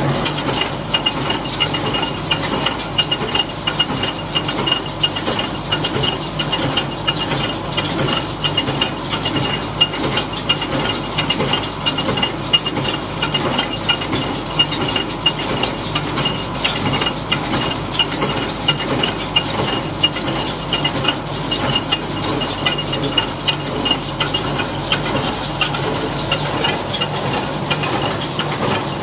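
Steyr 1400a tractor running steadily while driving a Welger AP12 round baler, a continuous mechanical clatter with a steady high whine through it.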